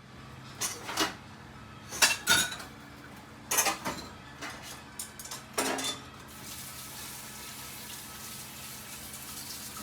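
Dishes and cutlery clinking: a handful of sharp knocks and clinks of tableware in the first six seconds, then a steady hiss over the rest.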